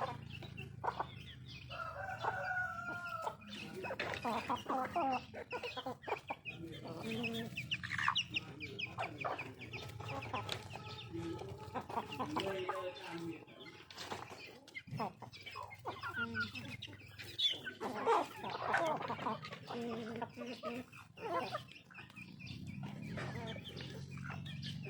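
Chickens clucking and calling as they feed, many short clucks with a few longer held calls, over a steady low hum and scattered sharp clicks.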